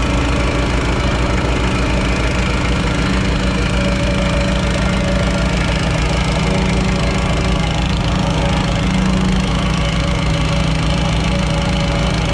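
Engine of a piece of construction equipment running steadily at a constant speed, with a low, even drone.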